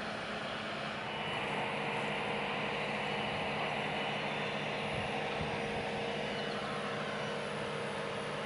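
A large crane's engine running steadily with a constant hum, getting a little louder about a second in.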